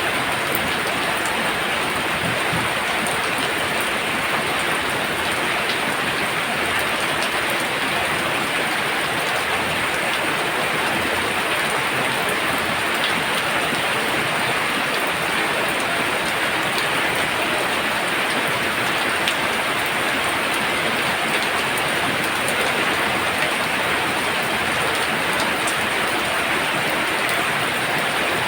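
Heavy rain falling steadily, a constant rushing hiss of downpour on surfaces.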